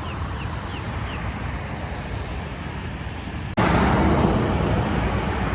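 Steady road traffic noise from a main road, with a few faint high chirps in the first second or so. About three and a half seconds in, the noise suddenly becomes louder.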